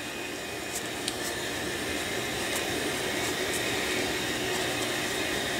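A steady rushing noise, as from a small motor or blowing air, rising slightly in level.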